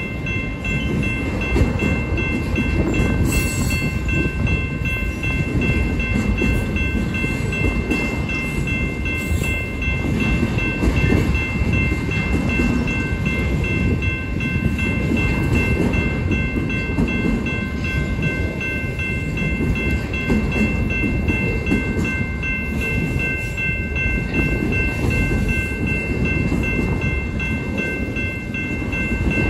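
A string of autorack freight cars rolling past at trackside: a steady rumble and rattle of steel wheels on the rails. Several faint, high, steady ringing tones hold throughout.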